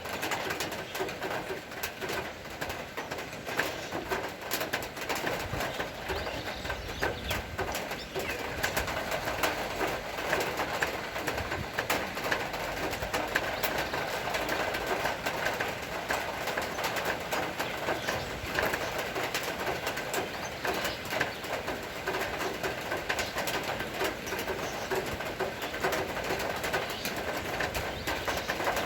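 Steady rain falling, a dense patter of drops, with a dove cooing.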